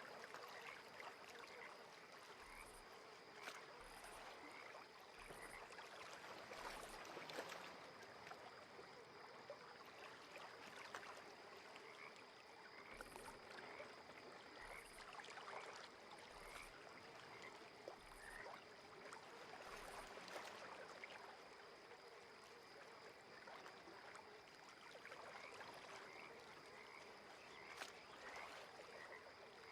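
Faint lakeside ambience: gentle water lapping and trickling under a steady high hum, with small chirps repeating throughout.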